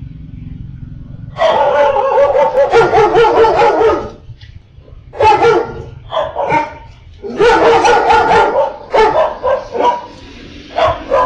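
A dog barking and yelping in long, loud runs with short breaks between them, starting about a second and a half in.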